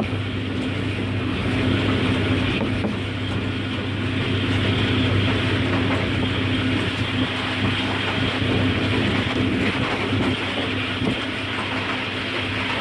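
Passing train: the steady drone of a ZCU-30 diesel-electric locomotive over the rolling rumble and clatter of wheels on the rails.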